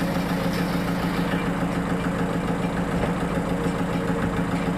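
Sawmill machinery running steadily at constant speed, an engine-driven drone with a steady low hum and no cutting load.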